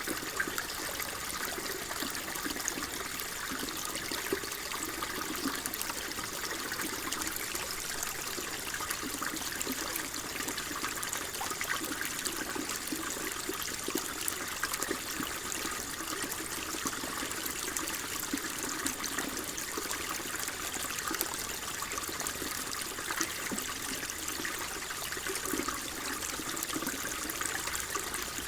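Water flowing and trickling steadily, a continuous burble with small splashy flickers and no letup.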